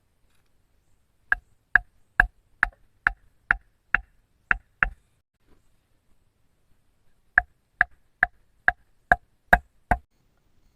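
Chopping: two runs of sharp, ringing strikes at about two a second, nine in the first run and seven in the second after a short pause.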